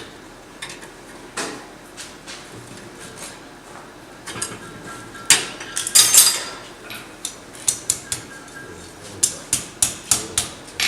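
Steel scrolling tongs and bending tools clinking and scraping against a hot forged iron leaf as it is bent. The sharp metal clinks come irregularly, bunched about five to six seconds in and in a quick run near the end.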